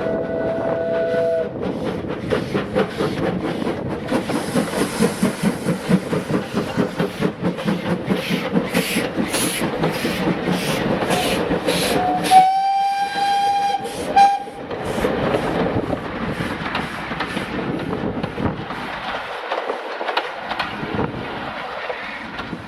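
Steam locomotive working along the line. A whistle note ends in the first second or so. Then comes a regular beat of exhaust, and the whistle is blown again for about two seconds near the middle before the train runs on with a steadier, fading sound.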